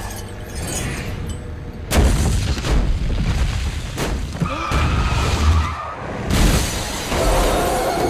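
Film crash sound effects from a highway pileup: a series of heavy impacts with crunching metal and shattering glass, the hardest blow about two seconds in and more near four and six seconds, with a held high tone in the middle.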